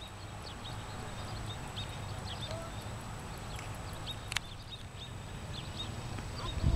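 Small birds chirping in short, scattered high notes over a steady low rumble, with one sharp click about four seconds in.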